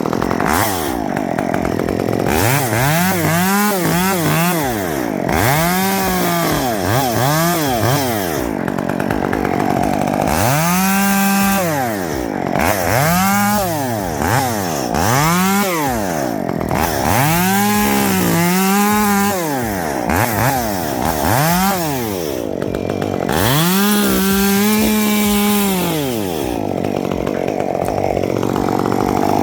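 Two-stroke chainsaw revved up to full throttle and let fall back over and over, each rev lasting about a second, sometimes held a little longer at the top.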